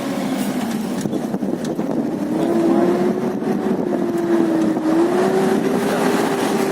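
Toyota Land Cruiser engine running under load off-road, its pitch rising about two seconds in, dipping around five seconds and rising again with the throttle, over a steady rushing noise.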